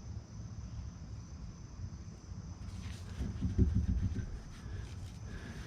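Quiet handling noise of work under a vehicle, with a louder cluster of low knocks and rustling about three to four seconds in and a few light clicks after, over a steady faint high-pitched drone.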